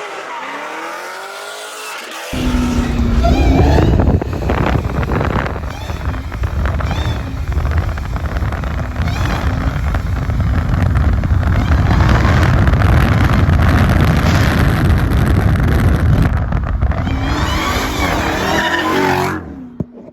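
Car engine revving hard with tires squealing, as in a burnout at a car meet. It gets suddenly much louder about two seconds in and drops away just before the end.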